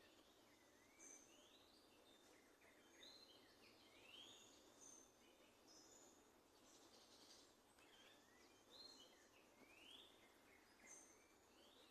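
Faint birdsong from several birds: short chirps that sweep upward, repeated every second or two, mixed with brief higher notes, over a low steady background hiss.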